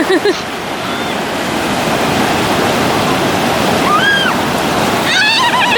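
Sea surf washing steadily on a beach. A short high call rises and falls about four seconds in, and a quick run of high, stuttering calls comes near the end.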